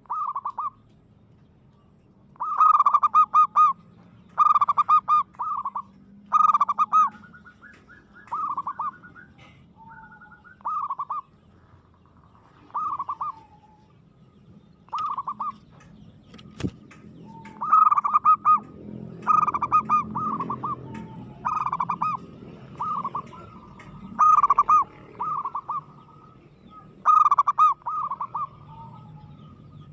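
Zebra dove (perkutut) cooing: short rolling, stuttering coo phrases repeated about every one to two seconds.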